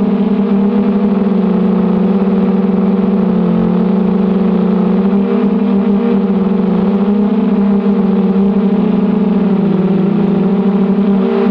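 Brushless motors of a 250-size FPV racing quadcopter (1806, 2280 kV) whining steadily, their pitch wavering slightly up and down with throttle.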